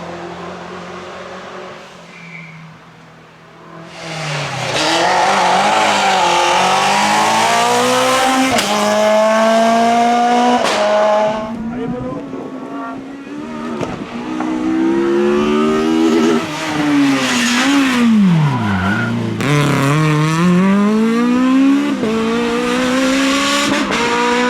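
Group F2000 rally cars' naturally aspirated engines at full attack, revving hard and climbing through the gears, the pitch dropping at each shift. About four seconds in the sound comes in loud after a brief lull. Near the end there is a deep drop in revs from hard braking before the engine climbs again, with some tyre squeal.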